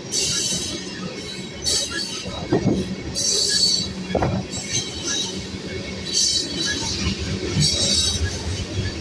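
Freight train of tank cars rolling past with a steady low rumble. The wheels give short, high-pitched squeals every second or two.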